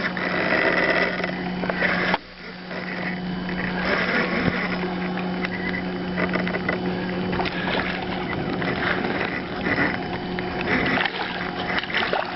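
Water splashing and lapping against a small fishing boat, over a steady low hum. Everything drops out briefly about two seconds in, then carries on.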